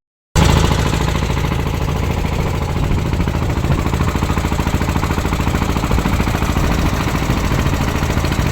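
Small boat's engine running steadily with a rapid, even beat, starting just after a short break in the sound.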